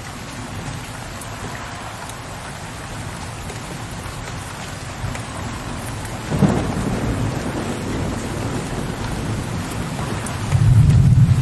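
Steady rain with low rolling thunder. About two-thirds of the way in a thunder crack breaks into a low rumble, and near the end a louder, deeper roll of thunder comes in.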